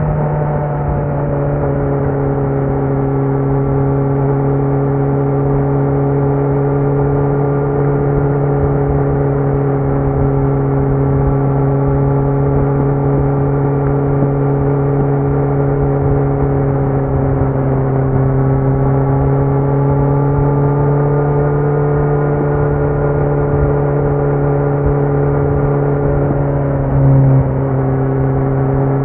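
Kawasaki Z900's 948 cc inline-four running at fairly steady revs through a Leo Vince muffler with no dB killer, the pitch easing down slightly midway and climbing again. A brief louder burst comes near the end.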